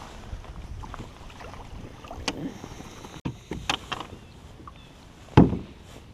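Scattered knocks and clicks of gear and a caught bass being handled aboard a sit-on-top fishing kayak, with one loud thump against the hull about five and a half seconds in, over a low rumble.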